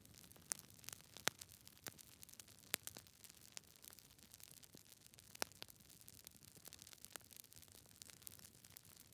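Wood fire crackling: irregular sharp pops and snaps from burning logs over a soft steady hiss of the flames, with a few louder pops.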